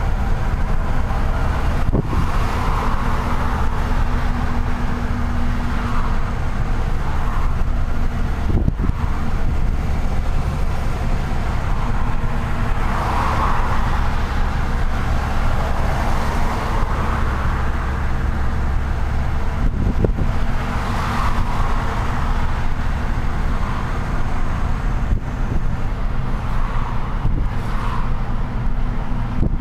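Truck engine running with tyre and road noise while driving through city traffic: a steady low drone, with a few brief knocks.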